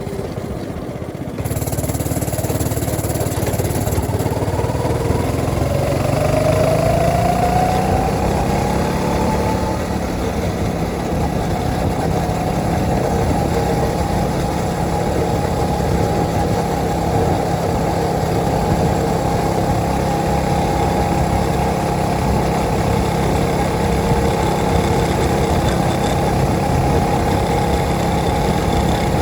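Go-kart's small engine running while driving; it gets louder about a second and a half in, its pitch climbs over a few seconds as it speeds up, then it runs steadily.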